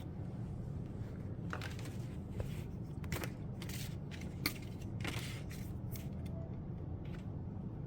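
Plastic hoses and fittings being handled and pushed together: a run of short rustles, scrapes and a couple of sharp clicks in the first half or so, over a steady low hum.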